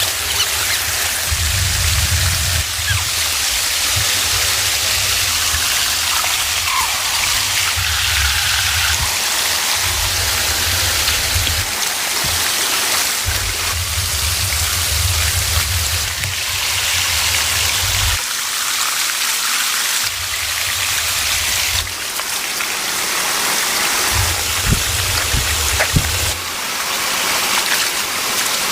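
Heavy rain falling together with rushing floodwater, a steady wash of water noise, with a low rumble that cuts in and out every few seconds.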